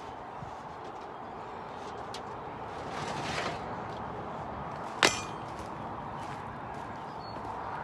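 A single sharp metallic clink with a short ring about five seconds in, over a steady outdoor hiss, with a brief swell of rustling noise a couple of seconds before it.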